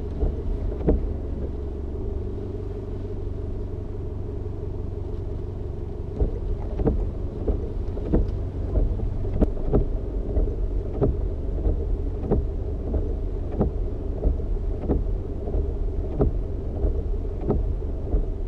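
Vehicle engine idling with a steady low drone, heard from inside the cab. From about six seconds in, a turn indicator ticks evenly, about one and a half clicks a second.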